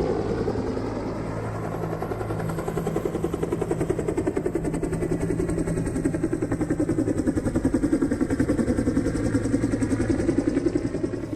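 Helicopter running, its rotor giving a rapid, even pulsing beat over a steady engine hum.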